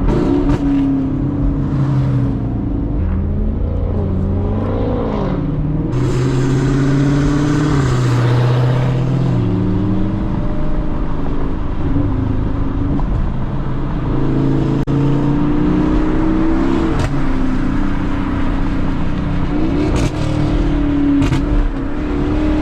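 Car engine running hard under repeated acceleration, its note climbing and dropping in steps as the gears change, while the car breaks loose on ice. A rushing hiss joins in for a few seconds about six seconds in.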